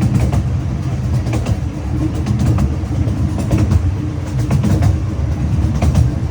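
Zoo park train rolling along the track, heard from a riding passenger car: a steady low rumble with irregular clicks of the wheels over the rails.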